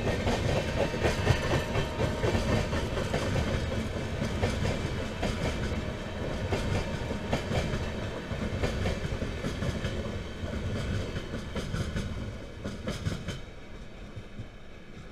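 Coaches of an express passenger train rolling past, wheels clattering rhythmically over the rail joints over a steady rumble. The clatter thins out and fades near the end as the last coaches pull away.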